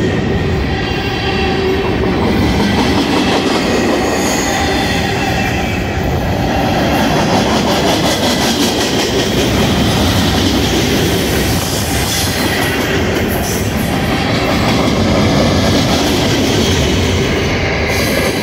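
Freight train's flatcars, loaded with open-top containers, rolling past close by: a steady, loud rumble and clatter of steel wheels on the rails.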